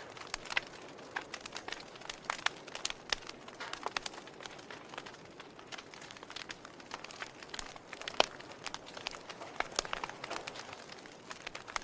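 Fire crackling: irregular sharp pops and snaps over a soft steady hiss, with the loudest snap about eight seconds in.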